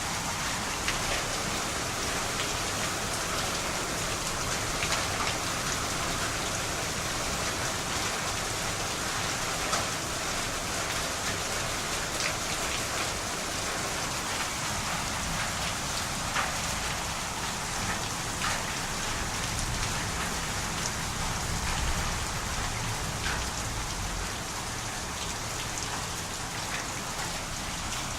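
Heavy storm rain pouring down steadily, with scattered sharp ticks of drops striking hard surfaces.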